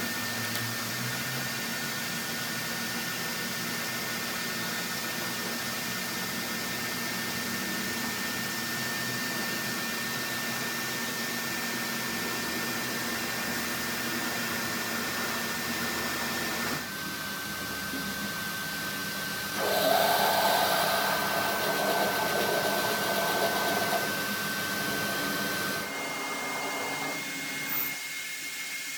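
Steady whirring of an electric motor in a workshop, with a constant high whine over it. The sound changes abruptly twice, and for several seconds after the first change it grows louder and rougher.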